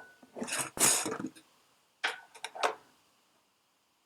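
Kitchen utensils and ingredients being handled at a counter: two short rustling scrapes, then a few light clicks and knocks, as brown sugar is measured out.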